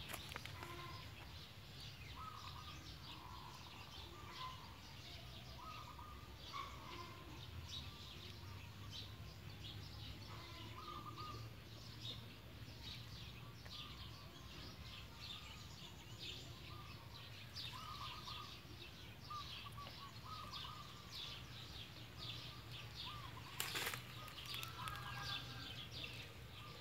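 Birds chirping and calling, a quick scatter of high chirps with short repeated lower notes every second or two, over a faint steady low hum. A single sharp knock near the end.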